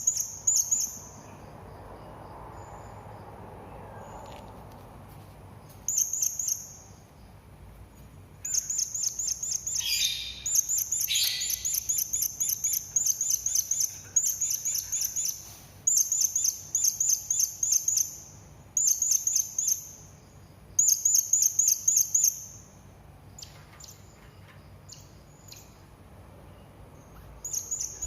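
Serindit (hanging parrot) calling: high-pitched, rapidly pulsed chittering phrases, several short bursts separated by pauses, with one longer run in the middle. About ten and eleven seconds in, two lower notes sweep downward under the trills.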